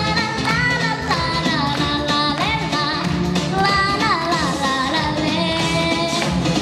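A young girl singing long, gliding notes over a pop backing track with a steady beat.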